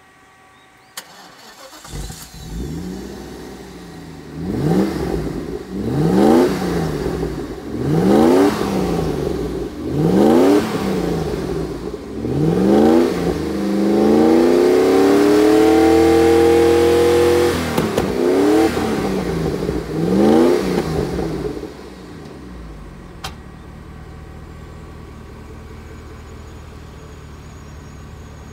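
Mercedes-Benz 500SL's 5.0-litre DOHC V8, breathing through a one-off stainless-steel exhaust, starts about two seconds in and is revved in a series of short blips every couple of seconds. It is held at higher revs for about four seconds around the middle, blipped twice more, and settles to a steady idle for the last few seconds.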